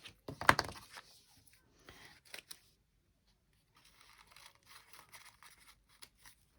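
Magazine paper cutouts being handled: a sharp paper crackle about half a second in, a few light ticks, then a soft rustling of paper for about two seconds near the end.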